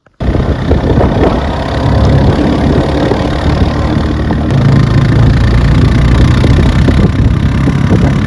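Four-wheeler (ATV) engine running loudly and close, with a rough, uneven low pulsing; it cuts in suddenly.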